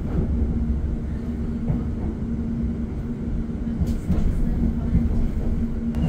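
Interior of a class 720 electric multiple unit running along the line: a steady low rumble with a constant hum and a few faint knocks.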